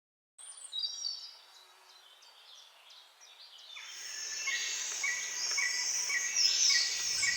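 A chorus of birds and insects. A few high bird chirps come about half a second in, then from about halfway through the chorus swells, with a chirp repeating roughly twice a second and high calls sweeping downward.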